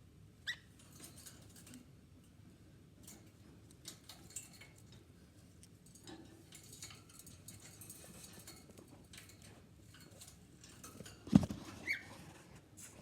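Cockatiels making small scratching and tapping noises, with two short high chirps, one about half a second in and one near the end. A louder knock comes about eleven seconds in.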